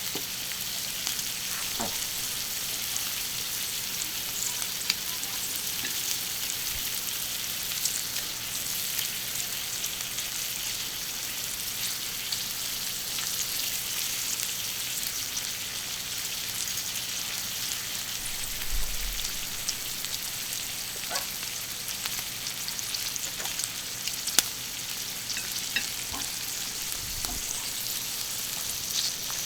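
Food sizzling on a hot thick iron griddle, a steady hiss with scattered pops and spits.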